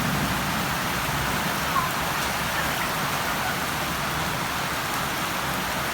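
Steady rain falling, an even hiss, with one short sharp sound just under two seconds in.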